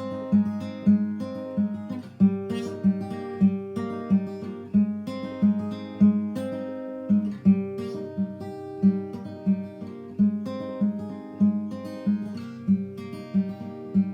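Background music: acoustic guitar playing a light, steady picked pattern of plucked notes.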